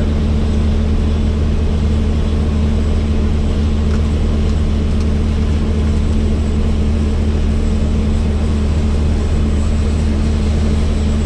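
Helicopter in flight: a loud, steady drone of rotor and engine with a constant low hum, not changing in level.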